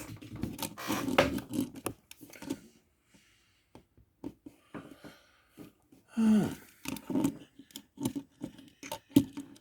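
Handling noise from a small die-cast metal toy jet being turned and repositioned in the hands: scattered clicks, knocks and rustles. About six seconds in there is one short low sound that falls in pitch.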